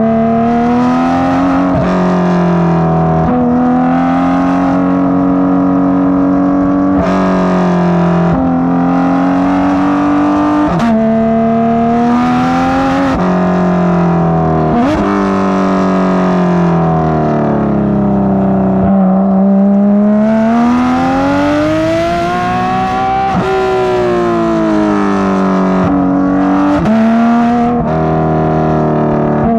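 Porsche 991.2 GT3 RS's 4.0-litre flat-six, fitted with Dundon street headers and a catless 'Crack Pipe', pulling hard through the gears. The exhaust note's pitch repeatedly climbs and then drops sharply with each shift, with a slower swell up and back down about two-thirds of the way through.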